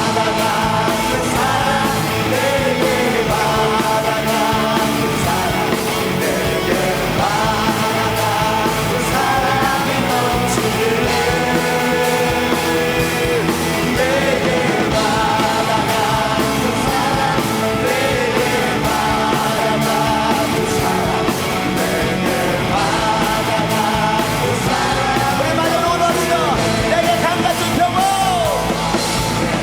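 Upbeat Korean praise and worship song: a group of singers over a rock-style band with a steady drum beat.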